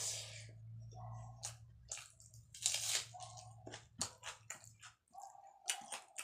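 Close-miked eating sounds: a person chewing a hand-fed mouthful of rice, with wet smacks and crunches, the loudest about three seconds in.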